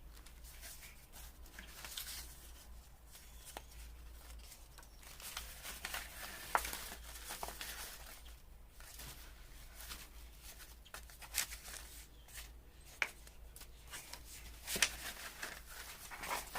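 Paper scraps rustling and crinkling as they are sorted through by hand, with a few sharp clicks along the way.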